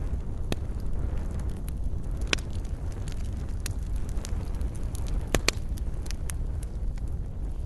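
Wood campfire burning: a steady low rumble of flames with scattered sharp crackles and pops from the burning wood. The loudest are two pops in quick succession about five and a half seconds in.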